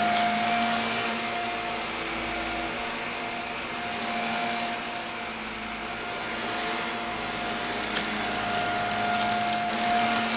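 Upright vacuum cleaner running steadily with a constant motor whine, a few crackles of debris being sucked up near the end.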